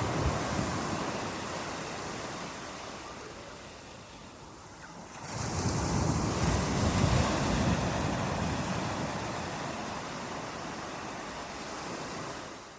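Ocean surf: one wave washing out and fading, then a fresh wave breaking about five seconds in and slowly receding. The sound fades out at the end.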